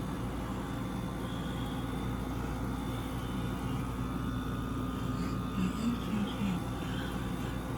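Window air conditioner running, a steady hum with a low drone and several fixed tones, with a few faint short sounds about six seconds in.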